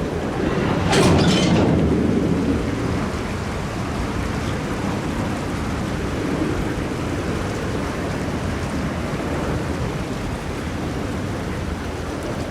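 Freight train rolling slowly through floodwater over the track, a steady rushing and churning of water, with wind buffeting the microphone; a loud surge about a second in.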